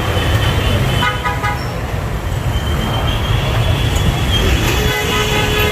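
Road traffic heard from a moving motorcycle, with heavy wind rumble on the microphone. A vehicle horn toots briefly about a second in, and another horn is held near the end.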